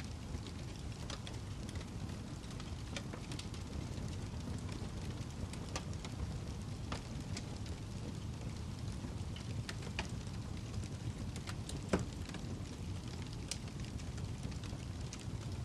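Wood fire burning in a fireplace: a steady low rumble with scattered sharp crackles and pops, one louder pop about twelve seconds in.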